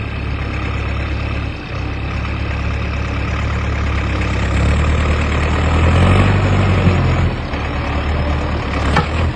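Heavy truck engine running, speeding up from about halfway through and easing off a couple of seconds later.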